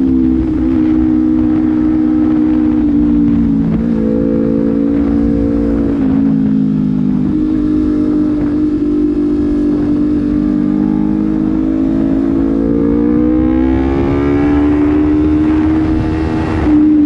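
Honda CBR250RR motorcycle running through a Proliner slip-on exhaust while being ridden, its pitch holding and stepping a few times, then rising steadily under acceleration for about five seconds before dropping sharply near the end at a gear change. Wind noise on the microphone underneath.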